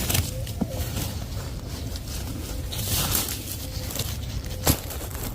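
Soft rustling and handling sounds over a low outdoor rumble, with two sharp clicks, one about half a second in and one near the end.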